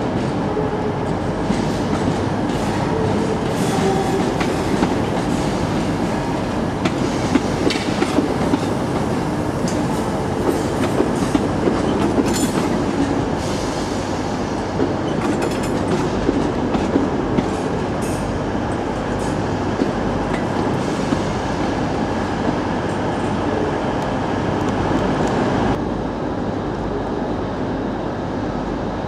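Northern passenger train moving at low speed through the station, its wheels rumbling and clicking over rail joints and points, with a brief high wheel squeal about twelve seconds in. The sound drops abruptly near the end.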